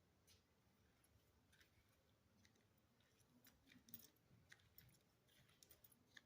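Near silence: quiet room tone with faint, scattered light clicks.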